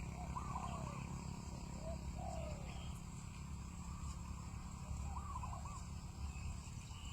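Spotted dove calling in short cooing phrases, three times, over a steady low rumble.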